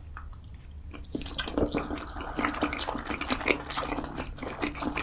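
A person biting into and chewing an egg, with many small wet mouth clicks and squishes, starting about a second in.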